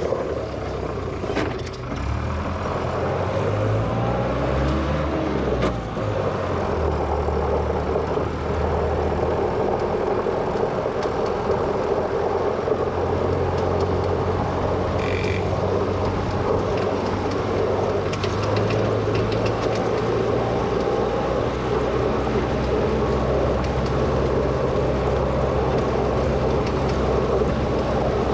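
Engine of a 1963 Volvo LM225 wheel loader running, its revs rising and falling over the first few seconds, then holding steady.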